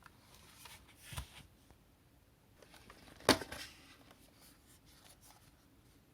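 Light handling sounds: a soft knock about a second in, then a single sharp click or knock a little past halfway, with faint rustling between.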